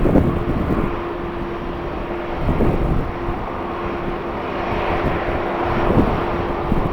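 Airliner engines running across the airfield, a steady hum with a constant tone, while strong wind gusts buffet the microphone.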